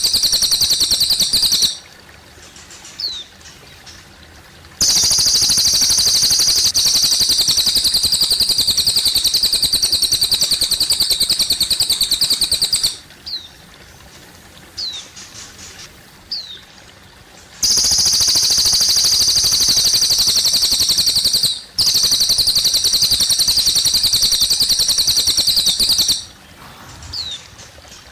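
Cililin bird singing long, rapid, buzzing high trills that last several seconds each and break off four times. In the pauses there are short, thin chirps over a faint trickle of water.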